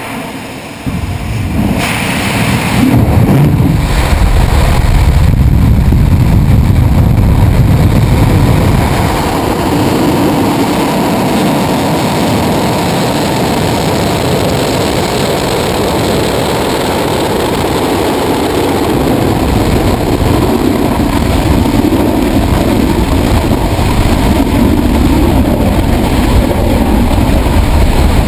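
Atlas V rocket's RD-180 first-stage engine igniting and lifting off, recorded right at the pad. The sound starts suddenly, builds within about three seconds to a very loud, steady rumble heavy in the low end, and stays at full strength.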